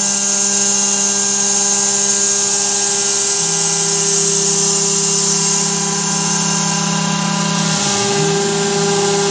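Carvera Air desktop CNC mill running a milling pass, its spindle and cutter giving a steady, many-toned whine, with the hiss of the air-assist jet blowing chips clear. The lower tones shift slightly in pitch a few times.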